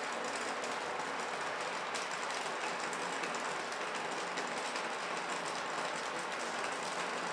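Steady rain falling: an even hiss of drops with many fine ticks of individual raindrops.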